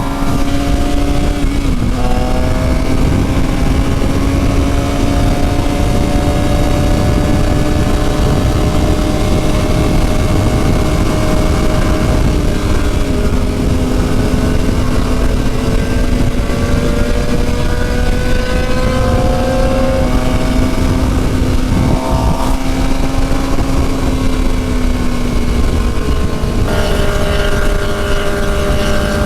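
Suzuki GSX-R750's inline-four engine pulling the bike along, its pitch creeping slowly up and then dropping in steps at a few gear changes, over a steady rush of wind.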